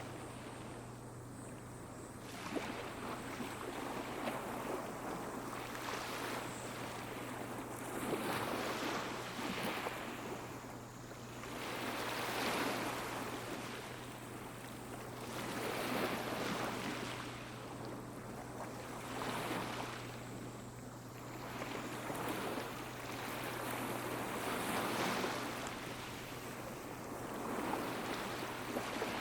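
Sea waves washing onto a beach, each surge of hiss swelling and falling away about every three to four seconds.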